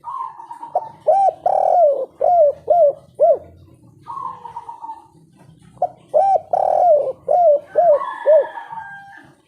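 Spotted dove (tekukur) cooing in the three-note "kuk 3" song style. Two song phrases come about five seconds apart. Each is a drawn-out opening note followed by a run of short, rising-and-falling coos.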